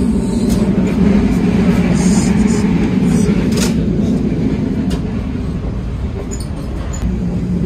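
Steady low rumble of a moving passenger train heard inside an air-conditioned sleeper coach, with a few sharp clicks along the way.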